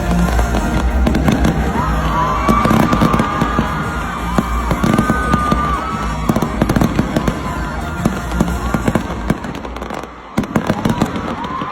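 Stadium fireworks going off: many bangs and crackles in quick succession over loud music.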